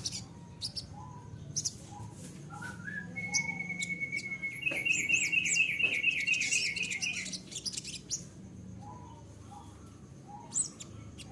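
Sogon bird singing: a level held whistle about three seconds in, then a fast run of repeated notes, about five a second, for nearly three seconds. Short high chirps come and go throughout.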